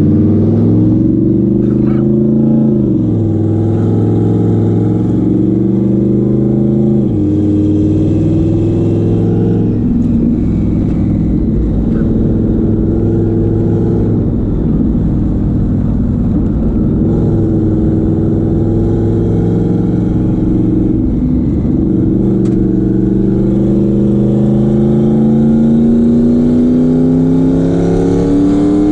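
Turbocharged S550 Ford Mustang's engine pulling as the car is driven to warm it up: its pitch climbs under acceleration and drops sharply at gear changes about 3 and 7 seconds in, then rises steadily again over the last several seconds.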